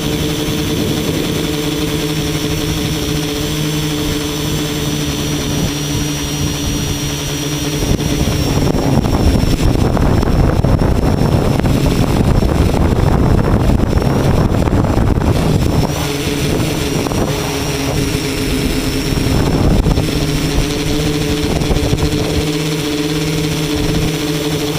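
A tricopter's brushless motors and propellers humming steadily in flight. From about a third of the way in until past halfway, a louder rushing noise covers the hum, and it comes back briefly later on.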